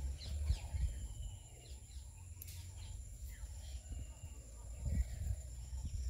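Faint, scattered bird chirps over a low rumble of handling and wind noise, with one sharp click about two and a half seconds in.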